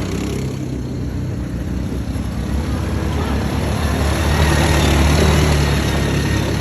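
Dirt bike engine running under way, with a steady hiss of riding noise over it; it gets a little louder about four seconds in.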